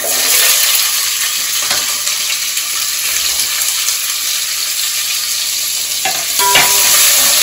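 Chopped onion, green chillies, ginger and garlic dropped into hot oil with mustard seeds in an aluminium pot, sizzling from the moment they hit the oil. A ladle stirs them near the end and the sizzle grows a little louder.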